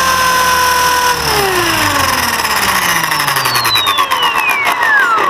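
RC helicopter's motor and rotor drivetrain running at a steady pitch, then spooling down about a second in: its whine of several tones falls steadily in pitch as the rotor winds down after the throttle is cut.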